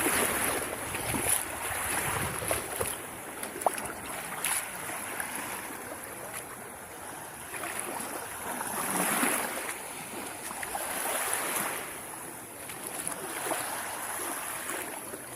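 Small sea waves washing onto the shore, swelling and falling away every few seconds, over a steady high hiss.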